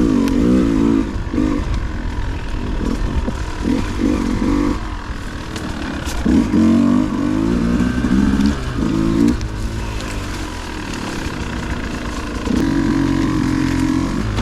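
Dirt bike engine revving in repeated bursts of a second or two, its pitch climbing and falling and easing off between bursts, with scattered short knocks.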